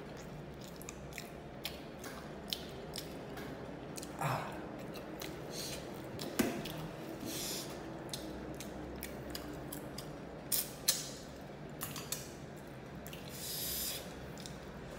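Close-up eating sounds: chewing of fried fish with wet mouth and lip-smacking clicks scattered throughout, and a few soft hisses.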